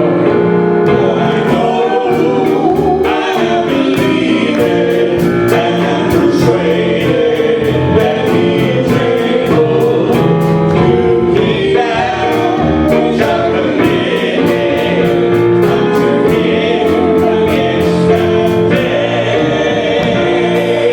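Gospel music: a group of voices singing with instrumental accompaniment over a steady beat.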